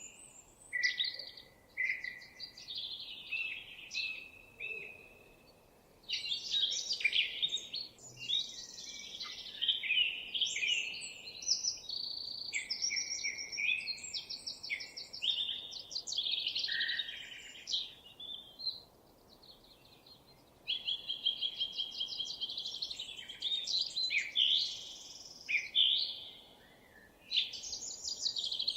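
Songbirds singing: varied warbling phrases and rapid trills, one after another, with a few brief pauses.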